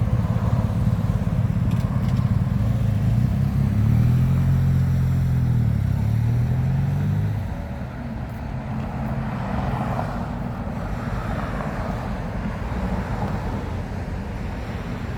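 A motor vehicle's engine running close by; its pitch rises and falls a few seconds in, and it drops away about halfway through, leaving quieter traffic noise.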